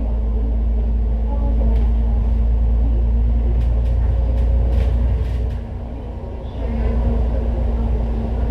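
City bus under way: a heavy low engine and road rumble with a steady drone. It eases off for about a second just past the middle, then picks back up, with a few light rattles.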